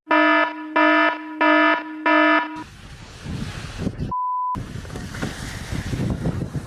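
An alarm sounds four short, evenly spaced buzzing blasts, followed by a rushing noise. A single short high beep cuts in a little past the middle.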